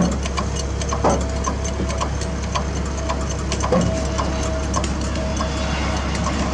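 A heavy diesel engine idling with a steady low hum and a light, rapid clatter over it.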